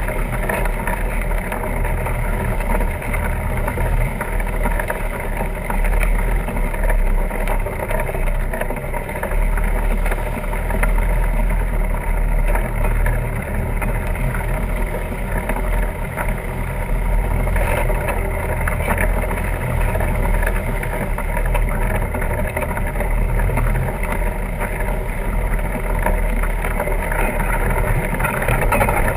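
Steady wind rush and low rumble on the microphone of a camera riding along on a fat tire bike, with no breaks.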